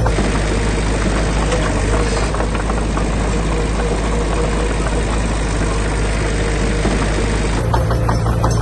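Diesel engine of a heavy construction machine running steadily.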